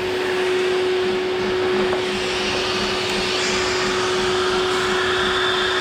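Steady electric blower or fan whirring with a constant low hum.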